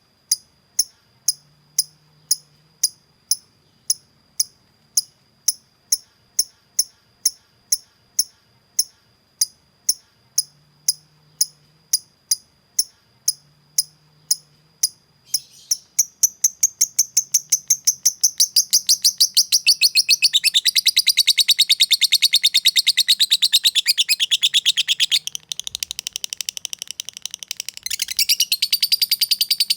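Lovebird calling: sharp, high single chips evenly repeated about one and a half times a second (the 'ngetik' ticking), then about halfway through it breaks into a long, fast, continuous chattering trill (the 'ngekek').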